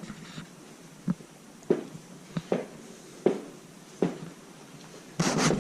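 Footsteps across a floor, one step about every 0.7 seconds, with a louder scuffling knock near the end.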